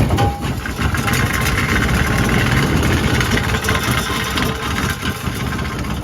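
Ford Crown Victoria's 4.6 V8 running loud and rough through an exhaust whose muffler is working loose.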